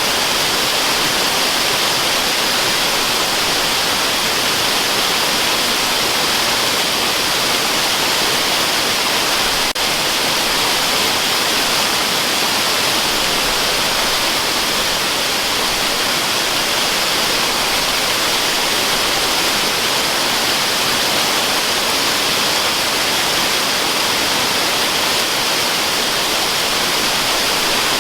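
Steady rushing of a waterfall: a dense, even hiss weighted toward the high end, with little low rumble. A faint click comes about ten seconds in.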